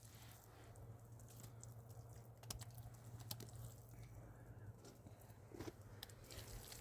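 Near silence: faint scattered clicks and small knocks over a low steady hum.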